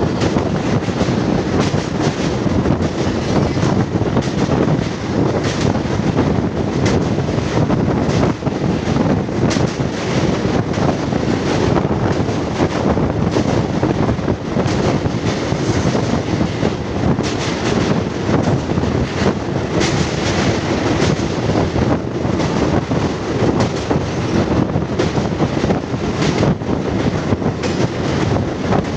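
MEMU electric multiple-unit train running across a steel truss girder bridge, heard from the open doorway: a loud, steady rumble of wheels on the rails, broken by frequent sharp clacks.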